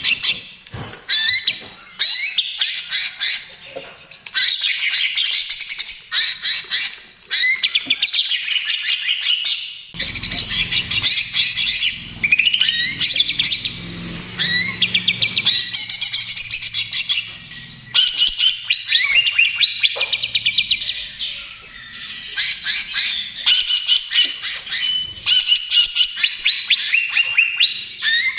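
Greater green leafbird (cucak ijo) singing without pause: long runs of fast, rapid-fire chattering and whistled notes in quick phrases, one after another with only brief breaks.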